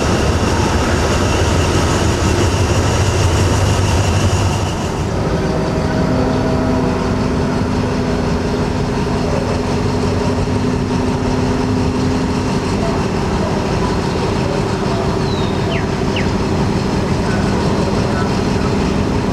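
Diesel locomotive engines running steadily with a loud, low hum. About five seconds in, the sound changes abruptly to a steadier running note with a few constant tones.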